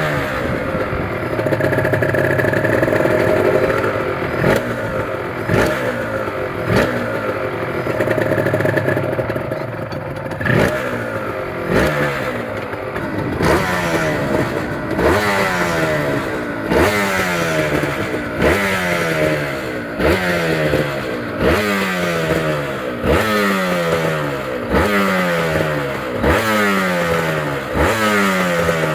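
Honda NSR two-stroke motorcycle engine running after a long lay-up. For the first ten seconds or so it is held at raised revs. After that it is blipped over and over, each rev snapping up and sliding back down, about one every second and a half.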